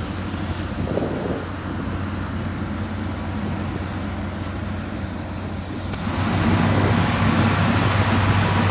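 Engine of a heavy road-construction machine running steadily, growing louder about six seconds in.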